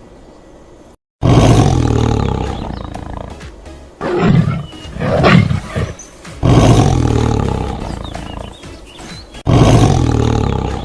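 Lion roaring: three long, loud roars that fade away, with a run of shorter roars rising and falling in pitch between the first two.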